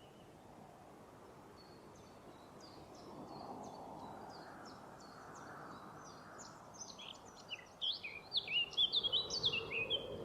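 Songbirds singing in a forest: faint chirps at first, then a loud, rapid song of short sweeping notes starting about seven seconds in. A soft rushing sound sits underneath throughout.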